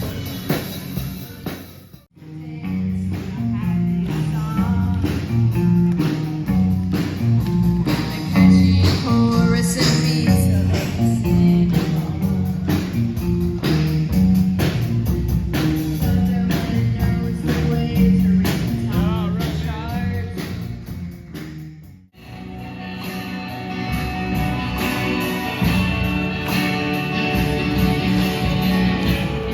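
Rock band playing live: guitar and drums with a singer. The music cuts out abruptly twice, about two seconds in and again about two-thirds of the way through, then resumes.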